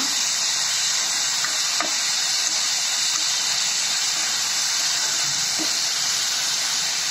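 Onion and capsicum frying in sauce in a kadai, a steady sizzle, with a spatula stirring the vegetables and now and then scraping the pan.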